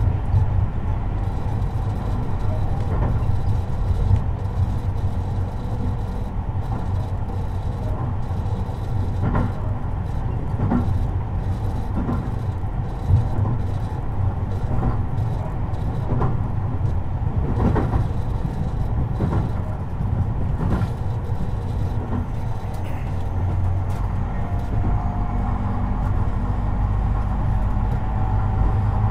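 Tobu 50090 series electric train running, heard from inside the car near the floor: a steady low rumble with wheels clacking over rail joints every second or so. A faint rising whine joins near the end.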